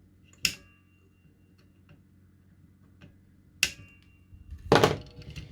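Two sharp metallic clicks, each followed by a brief high ring, then a louder, longer clatter near the end, from small hand tools being handled on an electronics workbench.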